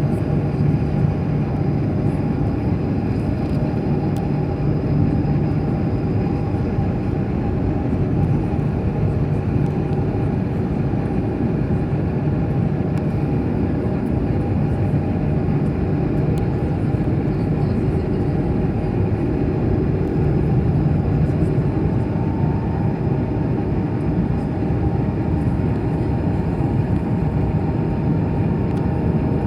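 Airliner's jet engines and airflow heard from inside the passenger cabin during takeoff and climb: a steady drone with a low hum, joined by a faint higher steady tone about two-thirds of the way through.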